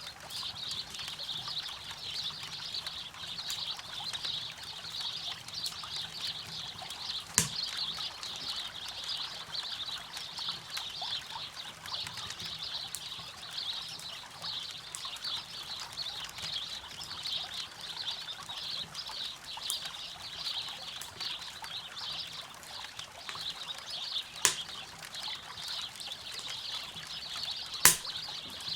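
A river running steadily with a campfire crackling, with three sharp, loud pops from the fire: one about a quarter of the way in and two close together near the end.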